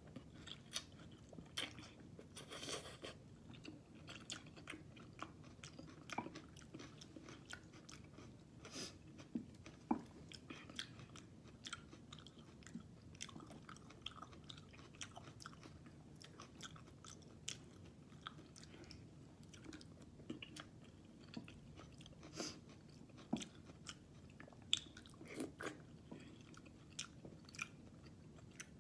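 A person eating sautéed sardines with sweet potato leaves: faint, close chewing with many short wet mouth clicks, and a slurp of the leafy strands about two to three seconds in.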